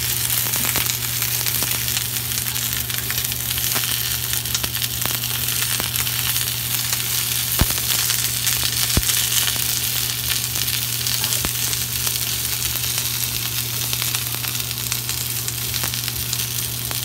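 Tomatillos, pepper strips and onion wedges sizzling steadily in hot oil in a frying pan, over a steady low hum. Two sharp clicks sound a little past the middle.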